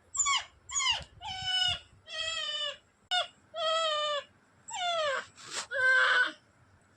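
Dog whining and yelping in a quick run of about eight high-pitched cries, several falling in pitch and some held for around half a second, with a rougher, harsher cry near the end.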